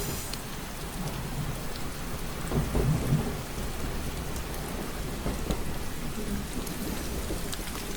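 Steady rain with a continuous low rumble underneath, which swells briefly about two and a half to three seconds in.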